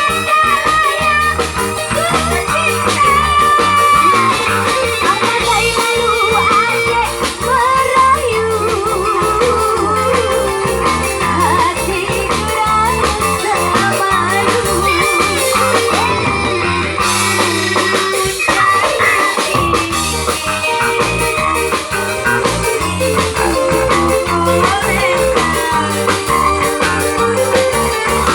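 Live band music: a singing voice carrying the melody over guitar, bass and drums, with a steady beat.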